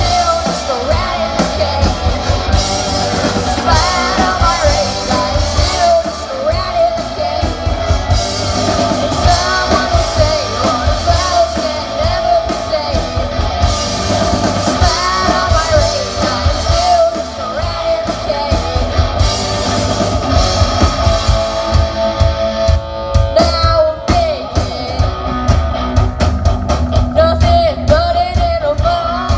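Rock band playing loudly with a singer: drum kit, guitar and vocals.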